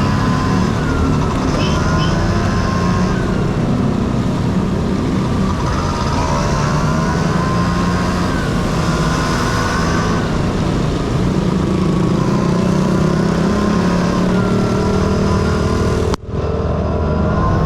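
Honda Dio AF18's small two-stroke single-cylinder engine running while riding, its pitch rising and falling as the throttle is opened and eased off, over a steady rush of road and wind noise. The sound briefly cuts out near the end.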